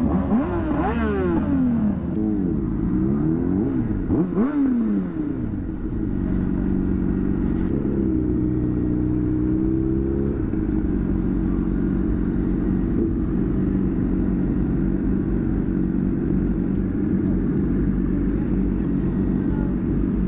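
Motorcycle engine revved up and down several times over the first five seconds, then running steadily at low revs.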